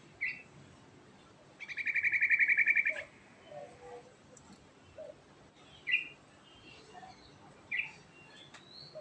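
Yellow-vented bulbul (trucukan) singing: a short whistled note, then a fast rolling trill of about a dozen notes a second lasting about a second and a half, the loudest part. A few more short notes follow near the middle and end.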